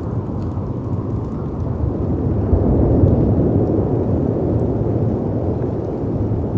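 Storm wind and sea surf making a continuous low rumbling noise that swells to its loudest about three seconds in and then eases, with a few faint crackles from a fireplace.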